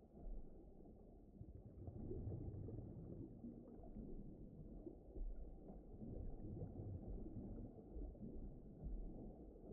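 Faint, muffled low rumble of a deep-ocean underwater ambience, swelling and easing every second or two.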